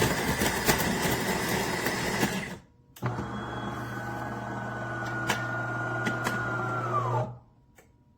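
De'Longhi Eletta Explore automatic espresso machine running with a steady motor hum. It stops briefly about two and a half seconds in, starts again with a steady whine, then winds down in pitch and cuts off about seven seconds in.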